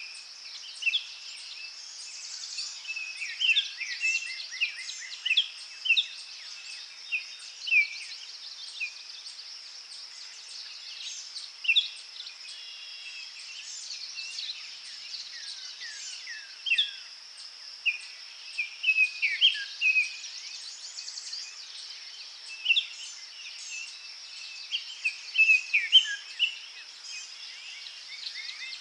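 Several wild birds singing and calling, with many short chirps and quick trills overlapping, over a steady high-pitched hiss that is likely insects.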